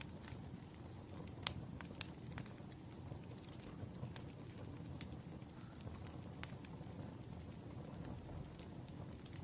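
Wood fire burning: a steady low rumble of flames with irregular sharp crackles and pops from the logs, the loudest pop about a second and a half in.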